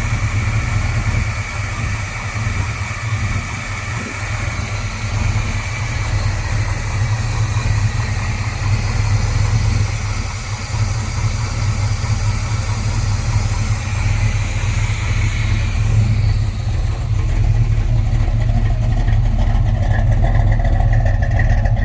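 1971 Chevy C10 pickup's 468 cubic-inch big-block V8 running steadily with a deep, low rumble, sounding mean.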